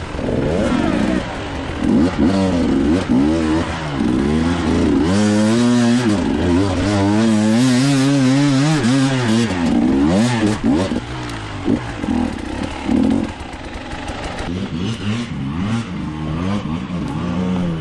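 Dirt bike engine revving hard, its pitch rising and falling over and over with quick throttle changes, most frantic in the middle, then settling to a lower, steadier run near the end.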